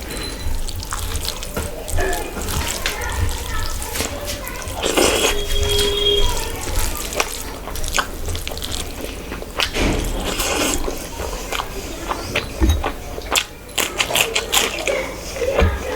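Close-miked wet eating sounds of rice and curry: irregular squelching, smacking and small clicks of food and mouth.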